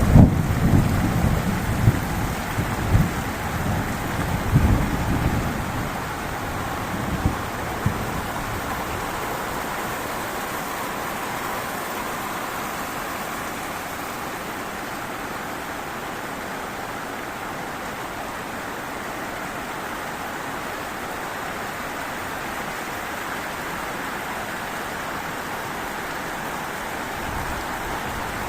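Heavy rain pouring down in a steady hiss, with low rumbling bursts through roughly the first eight seconds that then die away.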